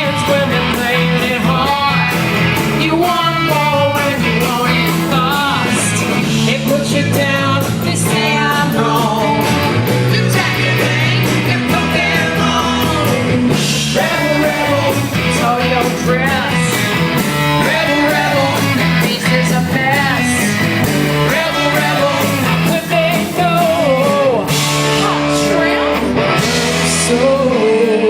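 Live rock band playing: a singer over electric guitar, bass and drum kit.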